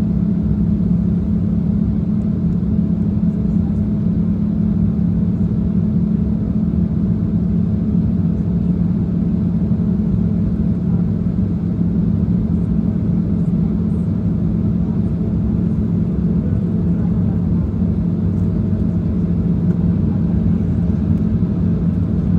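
Steady drone inside a jet airliner's cabin during the climb after takeoff: engine and airflow noise with a constant low hum and a fainter higher tone.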